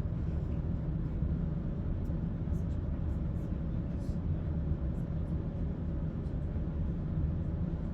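Cabin noise of a Class 170 Turbostar diesel multiple unit under way: a steady low drone from its underfloor diesel engine and wheels running on the rails, heard from inside the carriage.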